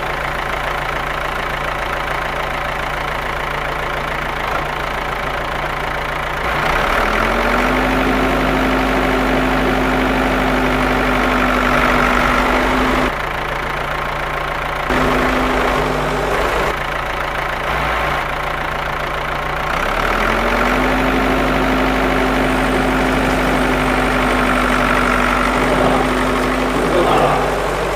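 An engine running steadily, like an idling tractor. Its pitch rises in a step about seven seconds in and again about twenty seconds in, dropping back briefly in between.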